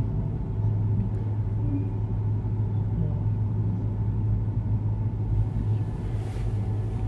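Steady low hum with a faint rumble beneath it, typical of mains hum from an amplified sound system.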